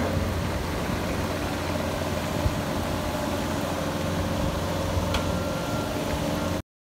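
Bobcat skid-steer loader engine running steadily with a low hum. The sound cuts off abruptly near the end.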